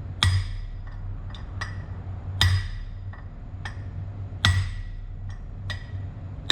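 Hammer blows on metal, a sharp ringing strike about every two seconds with lighter taps in between, over a steady low hum.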